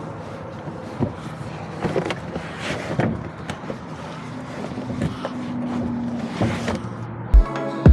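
Ford E-150 van on the move: steady road and engine noise with scattered knocks. Electronic music starts near the end.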